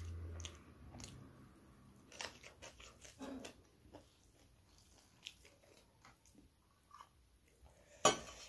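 Close-up chewing and mouth sounds of rice and curry being eaten by hand, with small clicks of fingers against a steel plate. A sharp clink near the end, as a hand touches a steel bowl.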